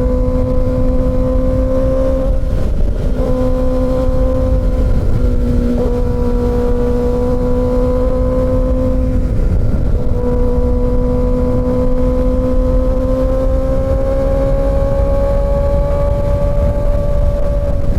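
Kawasaki Ninja ZX-6R's inline-four engine running at steady cruising revs, with wind rush underneath. The note breaks briefly three times in the first half, then rises slowly as the bike gently accelerates.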